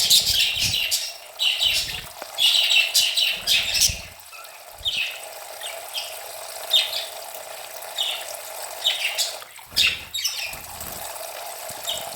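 Budgerigars chirping repeatedly while bathing, with several bursts of wing-flapping as they flutter under a shower; running water gives a steady background sound.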